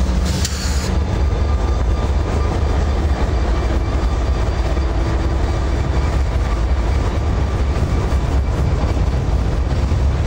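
CSX freight train rolling past close by: a loud, steady rumble of railroad cars on the track.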